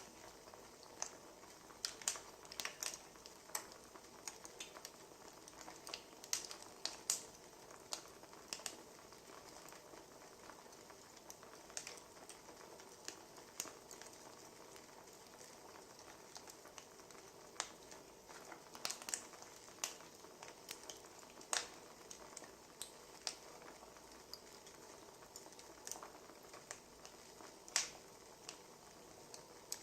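Wood fire crackling faintly, with irregular sharp pops and snaps over a soft steady hiss.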